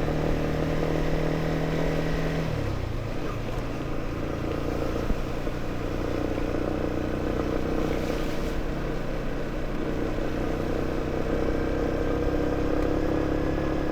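Motorcycle engine running steadily while being ridden, with road and wind noise; the engine note drops about two and a half seconds in.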